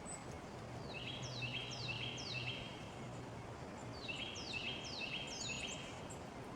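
Tufted titmouse singing its whistled "peter-peter" song: two phrases of four two-part notes, each sliding down and then holding briefly, with a pause of about a second between the phrases.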